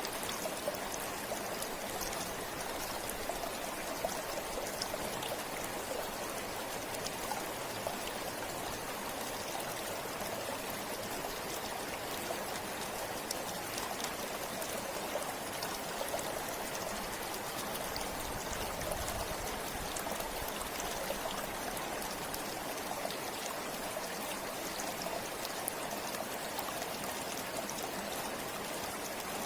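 River water flowing steadily, an even rush with small splashing ticks.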